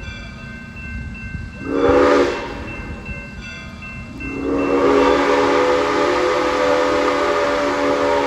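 A locomotive sounds its multi-note warning chime: a short blast about two seconds in, then a long blast from about four seconds on, the close of the long-long-short-long crossing signal. Under it runs the steady rumble of the train on the rails.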